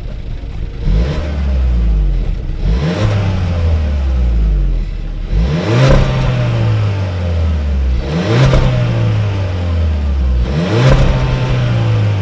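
Volkswagen Golf 1.4 TSI turbocharged four-cylinder petrol engine revved five times through its aftermarket GTI-style exhaust end section. Each time the pitch shoots up quickly and then sinks slowly back toward idle.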